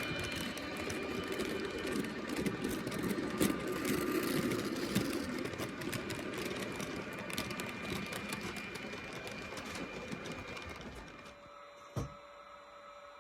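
H0-scale model train running on the track, a busy clattering of wheels and motor full of small clicks, fading and dropping away as it passes off. A single sharp click follows shortly after, then only a quiet hum.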